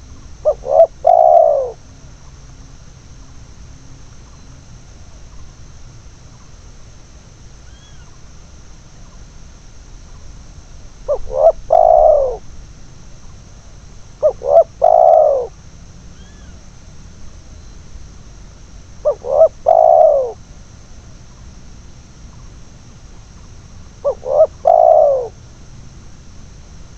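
Spotted dove (tekukur) cooing: five phrases several seconds apart, each two or three short notes followed by a longer, drawn-out coo.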